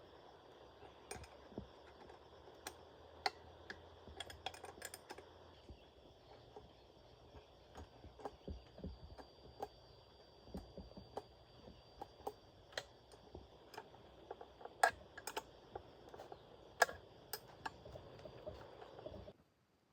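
Irregular light clicks and taps, some in quick clusters, over a faint steady hiss, cutting off abruptly near the end.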